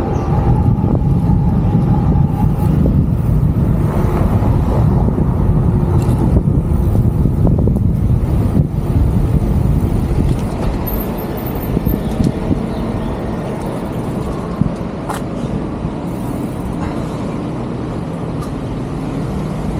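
Wind and road noise on an action camera's microphone while riding an electric bike through city traffic: a steady low rumble, with the sound of cars around it, easing slightly in the last third.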